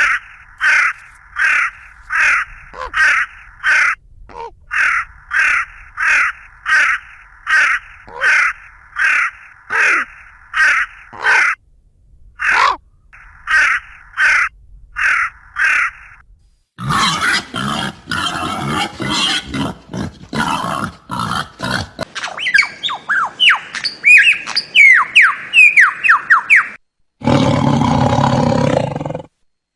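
A sequence of animal calls. It opens with harsh bird calls repeated about twice a second for some sixteen seconds, then a noisy stretch, then a run of quick, falling chirps, and finally another animal's sound near the end.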